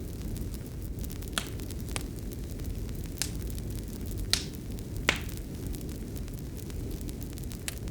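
Fireplace fire burning: a steady low rumble with sharp crackles and pops, about six of them, spread irregularly.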